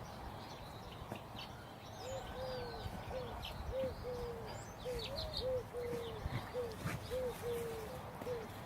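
A dove cooing in repeated soft phrases of short, arched notes, about two a second, with small birds chirping faintly in the background.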